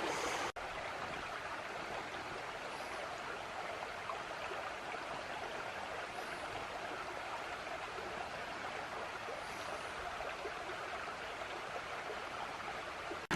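Small creek cascades: a steady rush of water running over rock.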